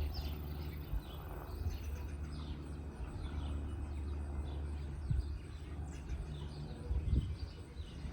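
Small birds chirping in short repeated calls over a steady low engine drone. There are a couple of brief low thumps about five and seven seconds in.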